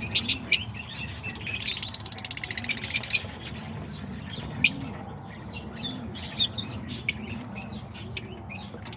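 Lovebirds chirping and chattering: many short, shrill chirps and quick trills overlapping.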